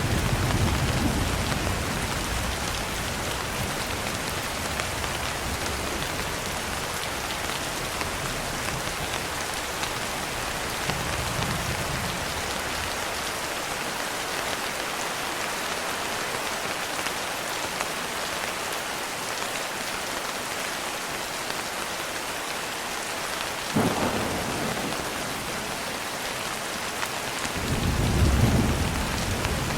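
Steady rain falling, with thunder: a rumble dying away in the first couple of seconds, a faint roll about a third of the way in, a sharp crack with rumbling about four-fifths of the way in, and a louder rumble near the end.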